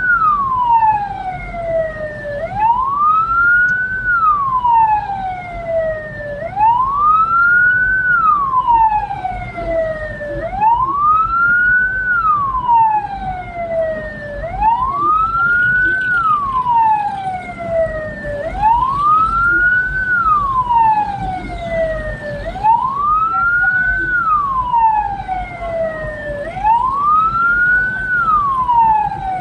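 Hearse's wail siren, rising and falling about every four seconds, over the low rumble of the vehicle on the road.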